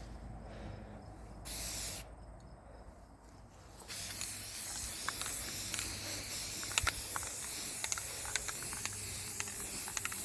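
Aerosol spray paint can spraying: one short spray about a second and a half in, then a long continuous hiss from about four seconds on, with small ticks and spits in it. The cans are decades old.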